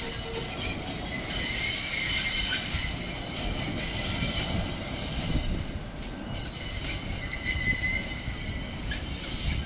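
Wheels of an R68-series New York City subway train squealing as it moves through the yard: a steady high-pitched squeal over a low rumble, dipping briefly about six seconds in and then returning.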